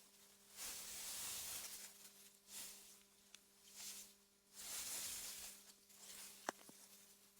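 Soft gusts of wind, a hiss that swells and dies away every second or two. A single sharp click about six and a half seconds in, over a faint steady low hum.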